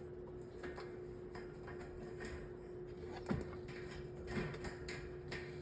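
Light clicks and taps from handling the metal parts of a table fan during reassembly, the most noticeable about three and four and a half seconds in, over a steady faint hum.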